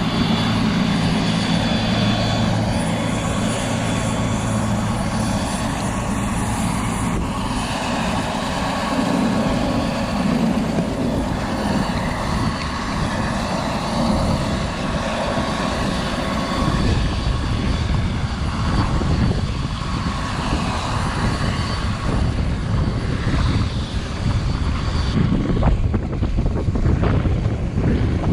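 Helicopter engine and rotor running steadily at close range. In the second half, wind buffeting on the microphone grows stronger.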